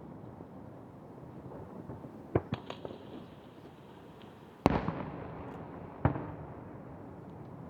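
Aerial firework shells bursting over the sea: a quick cluster of three bangs about two and a half seconds in, the loudest bang a little before five seconds, and another about six seconds in, each trailing off in a rumbling echo.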